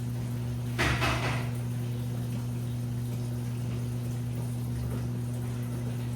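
Washing machine running during a wash: a steady low motor hum, with one loud slosh of water in the turning drum about a second in.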